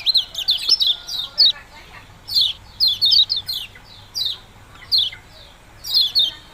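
Kecial kuning songbird calling in quick, high chirps, a dense run at first, then short groups of chirps spaced about half a second to a second apart.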